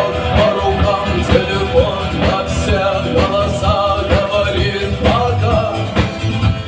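Rock music: an instrumental passage with a guitar melody over bass and drums, at a steady beat.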